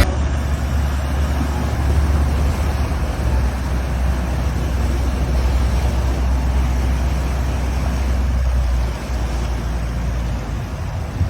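The ferry boat's 829 hp diesel engine running with a steady low rumble, mixed with a hiss of water and wind. The rumble eases off about nine seconds in.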